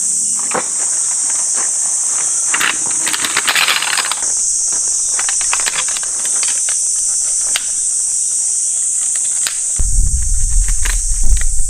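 Insects, crickets or cicadas, buzzing steadily in a high, even drone, with scattered clicks and rustles of gear being handled. Near the end a loud low rumble comes in.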